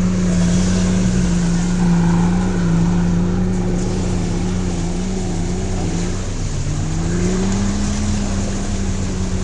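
Off-road vehicle engine running at steady revs. The revs dip briefly about six seconds in, then pick up again and hold.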